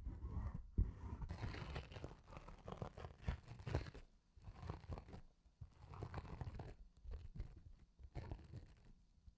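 Close-miked ASMR trigger sounds: irregular scratching and rubbing with soft low thumps, in short clusters separated by brief pauses.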